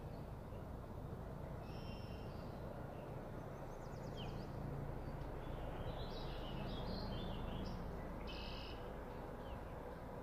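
Birds chirping in short, scattered calls over a low, steady rumble that swells slightly midway.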